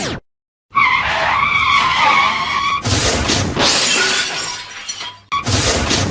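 Added sound effects for a car crash: a short falling glide, then a tyre screech for about two seconds, then glass shattering from about three seconds in, with a second crash of breaking glass a little after five seconds.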